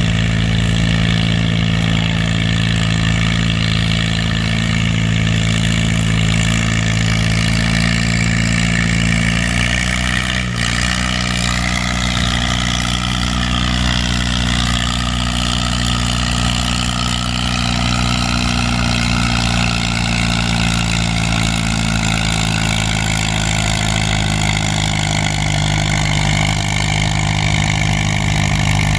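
Farm tractor engine running loud and steady at one constant pitch, working under load as it pulls a weight-transfer sled.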